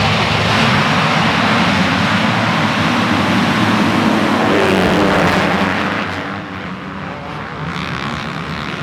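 Several motocross bikes racing past together, their engines loud and revving. The sound eases off somewhat about six seconds in.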